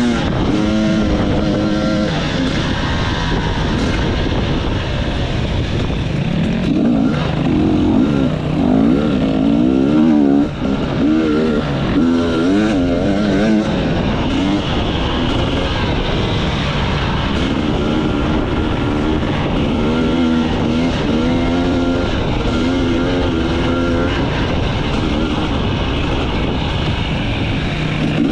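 Enduro motorcycle engine revving up and down repeatedly as the bike is ridden off-road, under a steady rush of noise.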